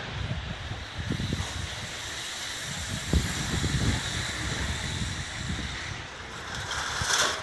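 Passing train's rumble and rush of air, with wind buffeting the microphone in uneven gusts under a steady hiss.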